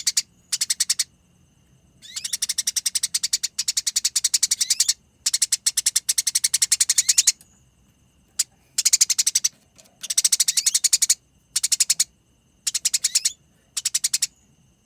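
Gereja tarung songbird singing long, rapid rattling trills ('ngerol nyerecet'). The trills come in repeated phrases, most about half a second to a second long, the longest near three seconds, with short pauses between them.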